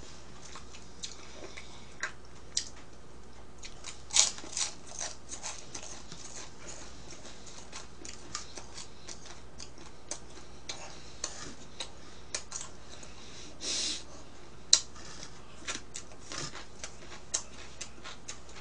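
Close-up chewing of thin, crisp pizza crust: scattered soft crunches and small mouth clicks at irregular intervals, with a brief louder crackle about fourteen seconds in.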